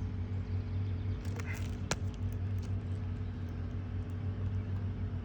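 Steady low mechanical hum, with a single sharp click about two seconds in.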